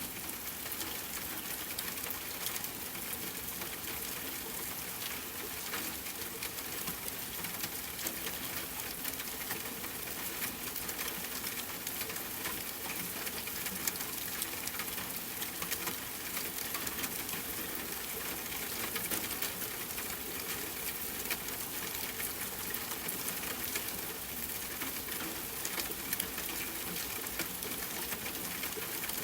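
Steady rainfall mixed with a crackling wood fire: an even hiss with many small pops and crackles scattered throughout.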